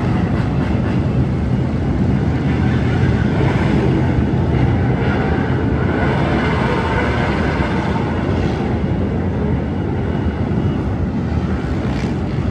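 A large group of motorcycles riding together, their engines making a loud, continuous din.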